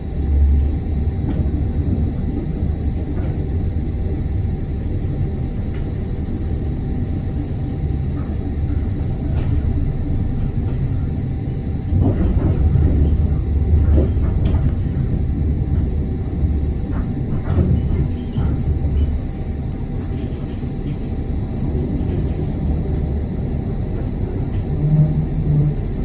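Amsterdam tram running on its rails, heard from inside the car: a steady low rumble with scattered clicks and knocks. It grows louder from about halfway through, with a few faint high squeaks.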